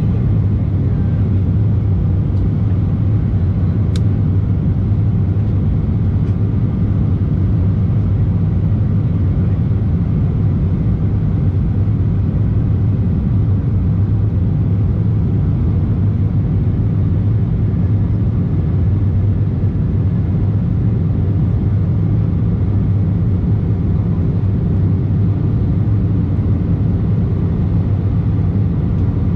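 Steady, unchanging jet engine and airflow noise inside the cabin of an Embraer E190 airliner, a low hum under a broad rush, with a single small click about four seconds in.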